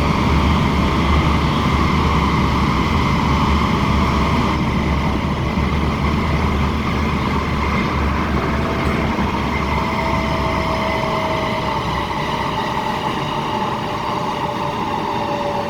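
Cabin sound of a Tung Chung line K-train, a Hyundai Rotem electric multiple unit, running on the line. There is a low rumble of wheels on track and steady whines from the traction equipment. The rumble fades over the second half.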